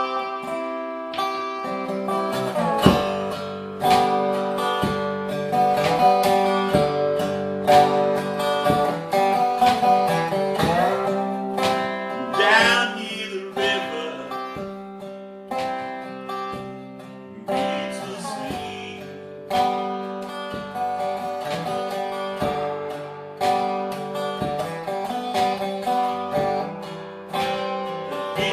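Guitar playing a slow blues passage: plucked single notes and chords, with notes bent or slid upward in pitch.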